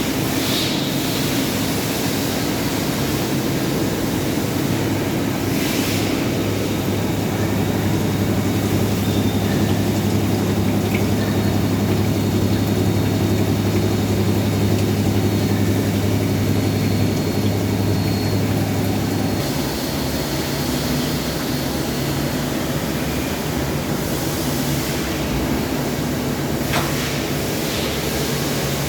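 CNC machine running steadily while machining a gear: a motor hum made of several steady tones under a constant hiss. The lowest, strongest tone drops away about two-thirds of the way through, and a few brief noisy bursts come and go.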